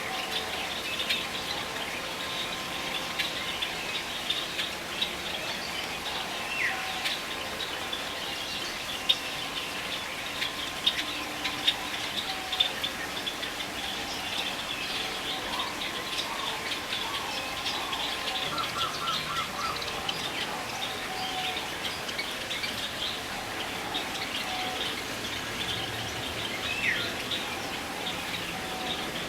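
A chorus of many birds chirping and calling, with dense high chirps throughout and now and then a downward-sliding whistle.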